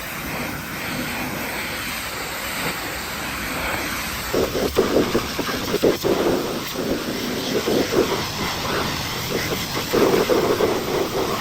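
High-pressure water spray hissing against the truck's bodywork, steady at first, then with irregular louder surges from about four seconds in as the jet moves over the surface.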